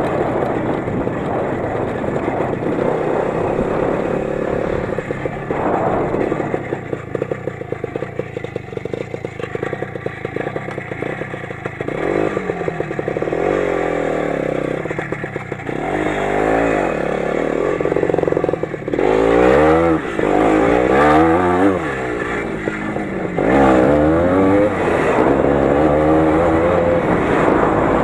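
The 20-horsepower Lider 3.221's engine under way off-road. It runs at low revs for the first twelve seconds or so, then revs up and down again and again, with the highest revs a little past the middle and near the end.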